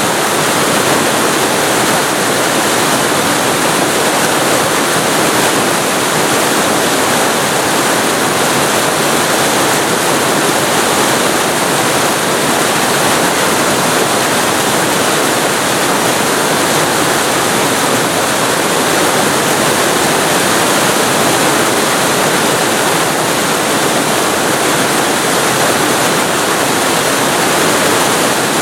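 Waterfall recorded very close to the falling water: a loud, steady rush of water with no changes.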